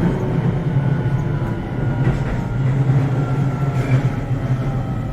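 Keio 7000 series electric train running, heard from inside the car: a steady low rumble of wheels on rail, with faint whining tones above it.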